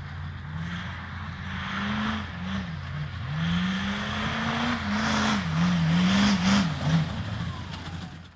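Duramax turbodiesel engine in an off-road trophy truck, revving up and down over and over as it is driven hard. The engine note climbs and drops several times, loudest toward the end, then cuts off suddenly.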